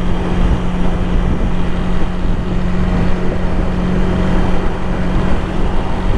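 Honda Rebel 300's single-cylinder engine running at a steady speed while the motorcycle is ridden, with wind rush on the microphone.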